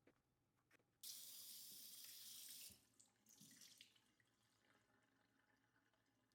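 Kitchen tap turned on and run hard for under two seconds, then shut off abruptly, running water for soaking potatoes. A softer, shorter splash of water follows a moment later.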